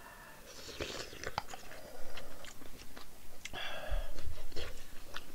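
Close-miked chewing of a mouthful of Spam kimchi jjigae: wet mouth clicks and smacks, with two longer breathy stretches, about half a second in and again near four seconds in.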